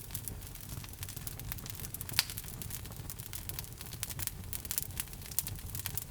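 Wood logs burning in a fireplace: a steady low rumble of the flames with scattered crackles and pops, one sharper pop about two seconds in.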